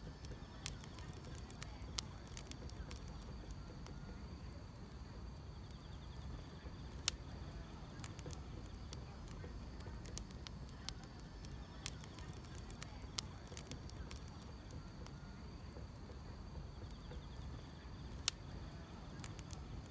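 Wood fire burning, with sharp crackles and pops at irregular intervals over a low steady rumble, and faint insect chirring.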